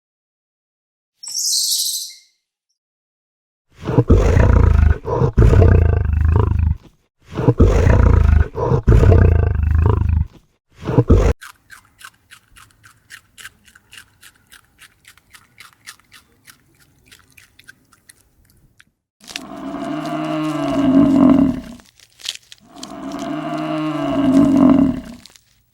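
A short high chirp, then two long, loud, low roaring animal calls, then a run of rapid faint clicks. After that come two drawn-out cattle moos.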